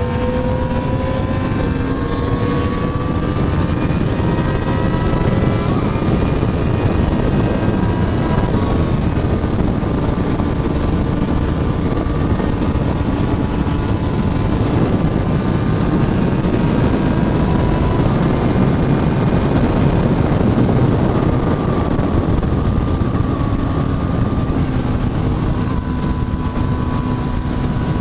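Motorcycle engine under way, its pitch rising over the first few seconds as it accelerates, then holding steady while cruising, with heavy wind rush over the microphone.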